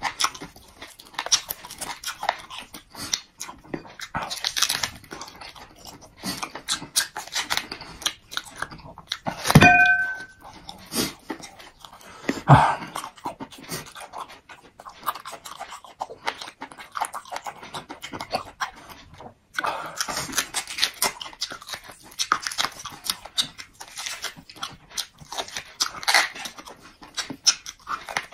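Close-up eating sounds of a man gnawing and tearing cooked meat off a large bone with his teeth, chewing and smacking continuously. Two louder short sounds come about ten seconds and twelve and a half seconds in.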